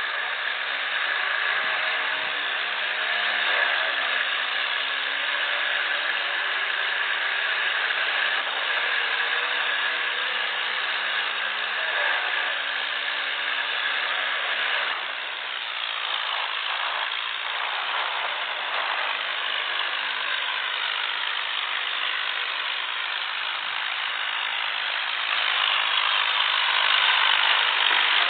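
Diesel tractor engines running hard under load in a tractor tug of war. The sound grows louder near the end.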